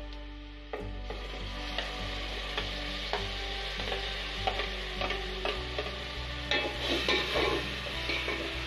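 Chopped tomatoes going into hot oil in a steel pot, sizzling, while a spatula scrapes and stirs against the pot. The sizzle starts about a second in, and the scraping and knocking grow busier near the end.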